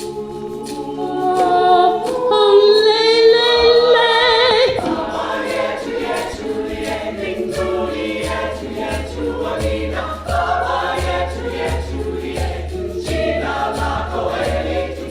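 Choir singing in Swahili, a high line with wide vibrato climbing to a peak in the first seconds, then the full choir over a steady percussion beat with a low drum from about halfway.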